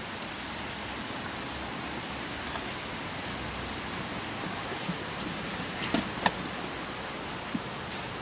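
Heavy rain falling steadily, a constant hiss of drops on surfaces, with a few sharper louder taps around the middle.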